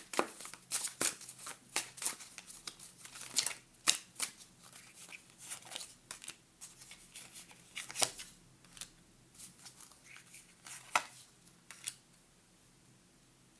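Tarot cards being shuffled and handled: a run of short, irregular rustles and clicks that thins out and stops about twelve seconds in.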